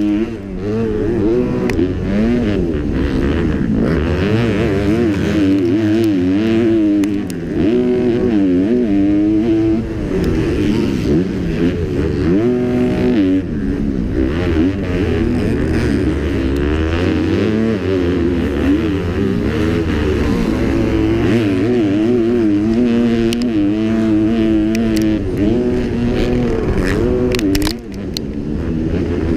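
Kawasaki KX250F four-stroke motocross bike engine at race pace, revving up and down without a break as the throttle is worked, with brief throttle cuts about half a second in, around seven seconds and near the end.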